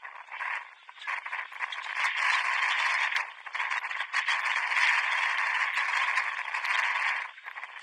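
Applause, many hands clapping, starting about a second in, rising and then stopping shortly before the end.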